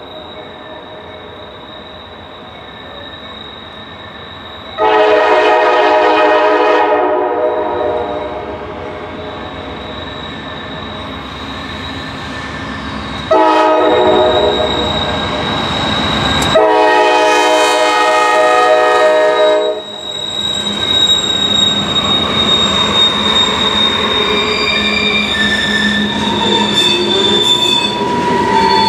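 Diesel freight locomotive's air horn sounding three times as the train approaches: a long blast, a short one, then a long one. The locomotive then passes and hopper cars roll by, with steady wheel noise and high wheel squeal.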